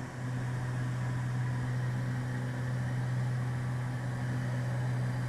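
Steady low cabin drone of a Beechcraft G58 Baron's two piston engines and propellers at climb power, the props synchronised so the drone holds even without beating.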